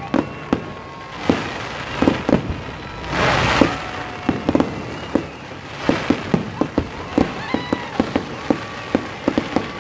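Aerial fireworks bursting: a quick run of sharp bangs, with a dense crackling hiss about three seconds in.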